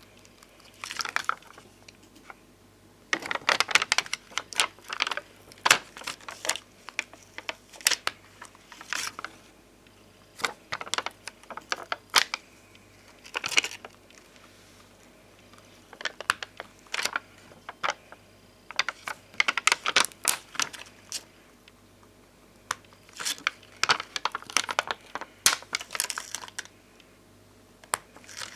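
Glossy puffy bonbon drop stickers and ohajiki stickers being handled close up: bursts of light, crisp taps and clicks with some crinkling, coming in clusters of a second or two with short pauses between.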